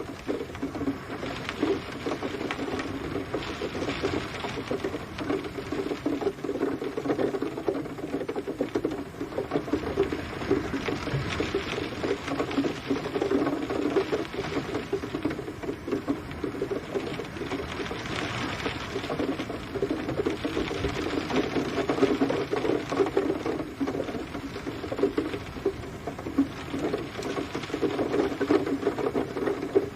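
Steady rain pattering in dense fine drops, swelling and easing every few seconds.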